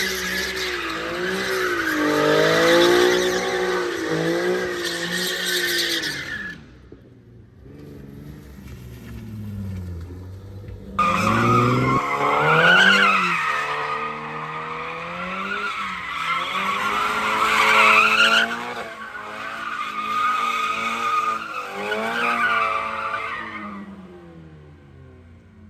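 Car drifting: the engine revs up and down while the tires squeal. The sound comes in two long spells, with a quieter stretch of lower revs between them, and the second spell starts about eleven seconds in.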